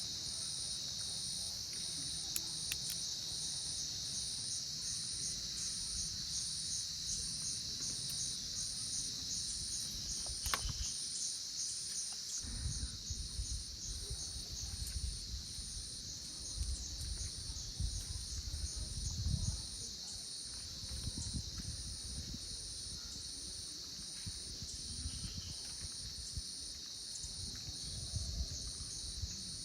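Steady chorus of forest insects: a high, shrill, continuous buzz with a fast, even pulsing trill on top. Low rumbling comes and goes beneath it, and there is one sharp click about ten seconds in.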